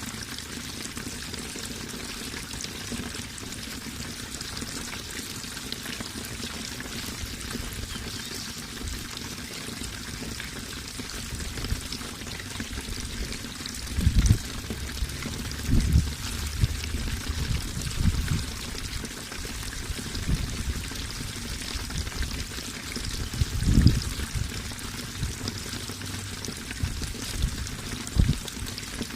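Running water pouring and trickling steadily, with a handful of short low thuds in the second half.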